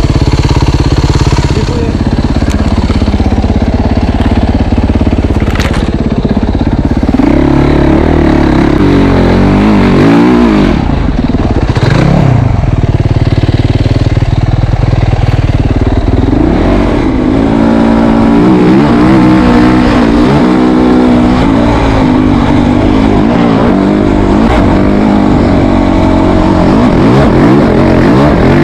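An engine running loudly and revving up and down repeatedly throughout, with its pitch rising and falling.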